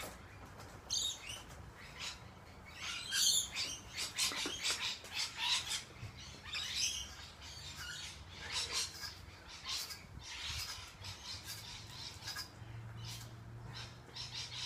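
Birds chirping over and over, in short, irregular high calls.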